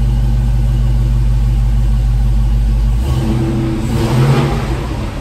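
LS-based V8 engine idling steadily, its note changing about three seconds in and rising briefly near four seconds as the revs pick up.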